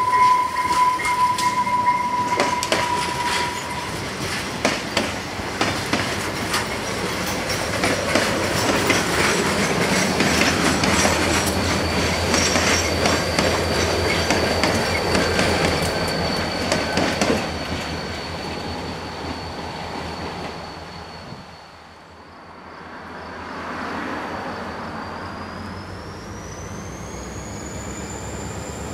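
Canadian Pacific track evaluation train passing close by: steel wheels clicking over rail joints and a diesel locomotive's rumble swelling as it goes past, then fading away. A steady high ringing tone is heard in the first few seconds. Near the end a diesel locomotive approaches again from a distance.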